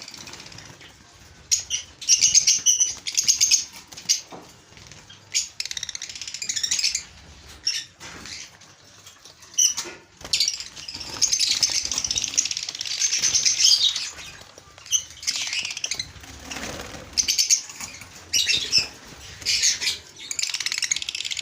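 Lovebirds chattering in runs of rapid, high, buzzy chirps, each run lasting a second or more, with short quieter gaps between.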